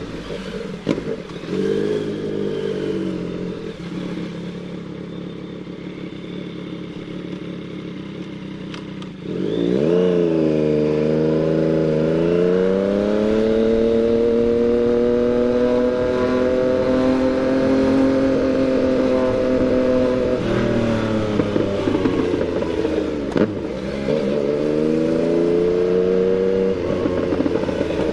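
Yamaha MT-09's three-cylinder engine under way. It runs steadily at light throttle, then about nine seconds in the throttle opens: the engine gets louder and its pitch climbs, then holds high and steady for about ten seconds. Around twenty seconds in the pitch falls as the throttle eases off, with a short dip and rise a few seconds later.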